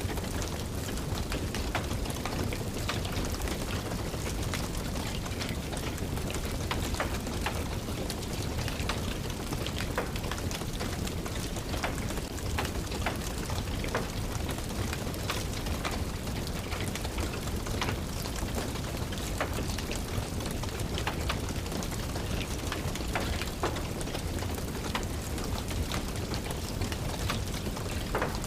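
Steady rain pattering, mixed with the scattered crackle and pop of a wood fire in a fireplace.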